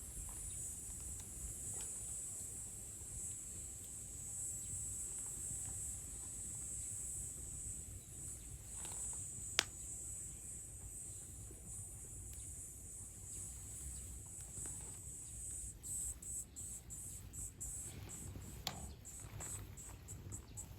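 High-pitched insect chorus trilling steadily, breaking into rapid even pulses in the last few seconds. Two sharp snaps, one about halfway through and one near the end.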